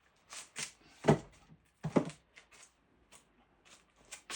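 Short scrapes and clicks of a small wood chisel picking rough bark off a chunk of diamond willow, with two louder knocks about one and two seconds in.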